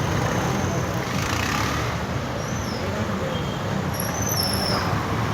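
Steady roadside traffic noise from passing vehicles, with a few short, high, gliding calls about halfway through and near the end.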